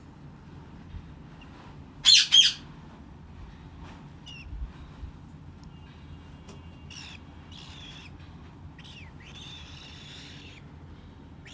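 Pet cockatiel calling: two loud, harsh squawks about two seconds in, then softer chirps and one longer call near the end.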